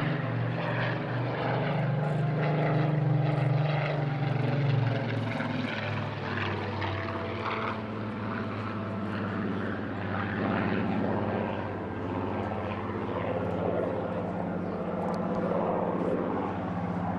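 Supermarine Spitfire PR XIX's Rolls-Royce Griffon V12 piston engine running under power in a flying display, a continuous propeller-driven engine note that changes pitch about five seconds in as the aircraft manoeuvres.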